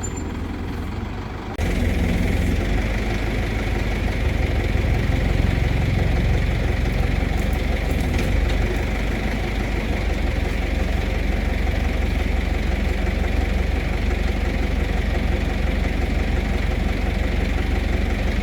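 Crane engine running steadily with a low rumble. It gets abruptly louder about one and a half seconds in, then holds even.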